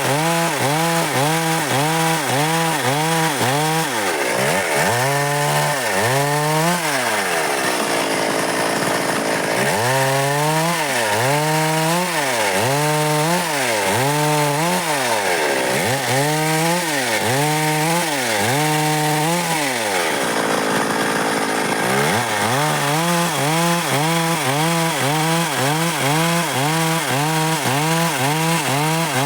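Stihl MS 382 two-stroke chainsaw cutting dry wood, its engine pitch dipping and rising again and again, about twice a second at the start and end and in slower swings in the middle.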